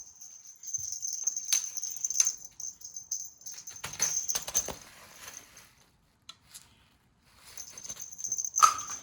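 A cat toy rattling in bursts as it is waved during play, with a few sharp knocks and a pause in the middle.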